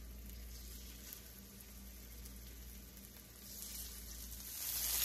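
Diced salmon sizzling as pieces are laid into hot olive oil in a cast-iron skillet. The sizzle is faint at first and grows much louder near the end as more pieces go into the oil.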